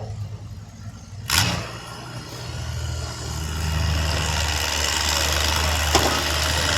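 1951 Oliver 77 tractor's engine running, with a sharp crack about a second in; the engine then grows louder over the next few seconds as it is pushed hard, and holds there.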